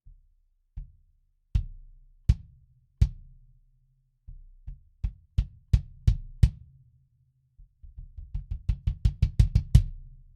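22-inch kick drum with an Evans EMAD2 batter head, muffled by a pillow inside and a foam ring outside, played solo. It starts with single evenly spaced hits that get louder, moves to a quicker group, and ends with a fast run of about a dozen strokes building in loudness.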